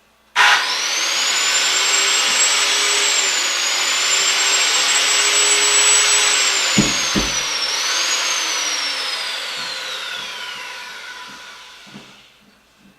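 A high-speed electric motor switches on abruptly and runs loudly with a high whine. About seven seconds in come two low thumps. The motor then winds down, its whine falling in pitch and fading over the last few seconds.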